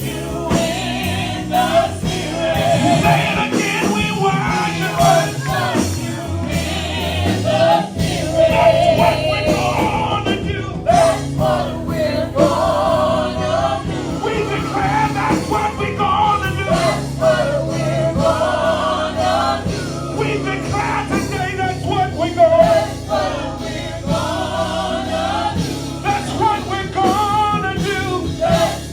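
Gospel worship music: a band plays while a singer and choir sing.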